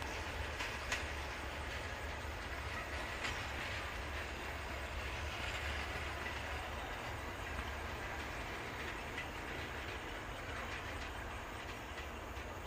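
Passenger train rolling away into the distance: a steady low rumble with occasional wheel clicks, easing slightly near the end.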